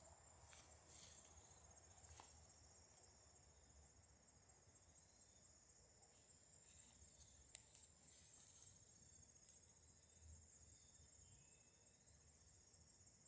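Faint, steady chorus of crickets trilling high and evenly, with a few soft clicks and a sharper click about halfway through.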